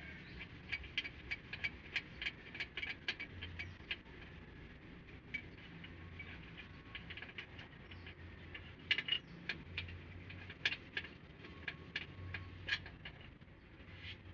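Metal hand tools clicking during engine work: rapid, irregular runs of sharp clicks, busiest in the first few seconds and again from about nine to thirteen seconds in.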